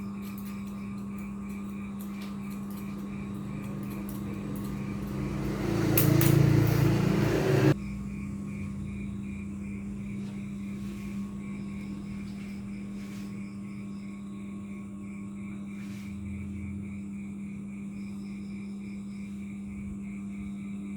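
Ship's machinery humming steadily at a low, even pitch. About five seconds in, a loud rushing rumble builds for roughly two seconds and then stops abruptly.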